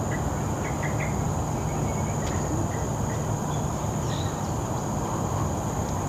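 Steady high-pitched drone of insects over a low rumble, with a few short chirps scattered through it.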